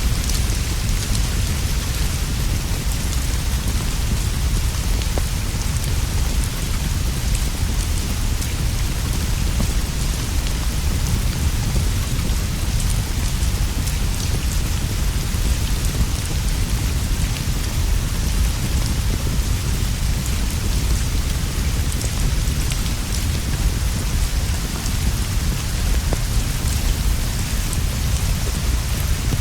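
Steady heavy rain falling on leaves and a straw roof, a dense even hiss over a constant low rumble, with fine scattered ticks of drips and a crackling fire.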